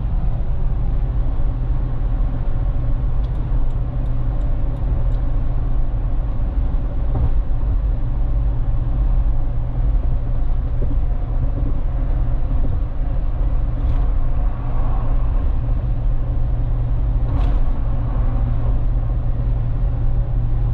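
Inside the cabin of a 2013 Lexus GX460 cruising steadily at freeway speed: the 4.6-litre V8 through its Magnaflow muffler gives a steady low hum under tyre and road noise, with no exhaust drone and the cabin quiet.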